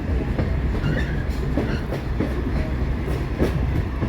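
Excursion train running along the track, heard from an open-air coach: a steady low rumble of wheels on rail with scattered clicks and brief squeaks from the wheels and couplings.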